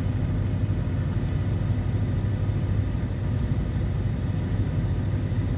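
Steady low rumble of a car running, without change through the stretch.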